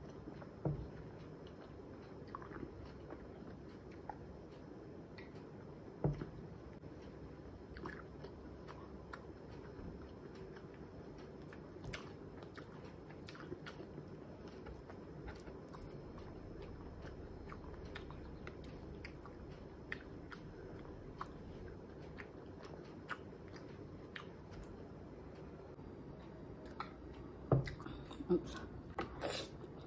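Close-miked mouth sounds of someone chewing and swallowing soft fried egg, with many small wet clicks. A sharper knock comes about a second in, another around six seconds, and several near the end.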